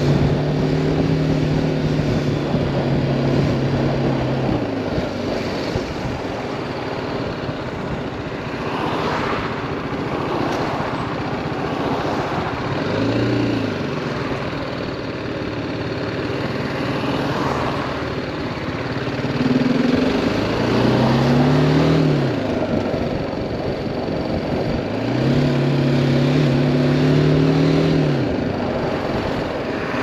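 Single-cylinder engine of a BMW G310R motorcycle, ridden in traffic with wind and road rush all through. The engine note holds steady at first and fades after about five seconds. It swells briefly near the middle, rises with the throttle a little past two-thirds of the way, and holds steady again near the end.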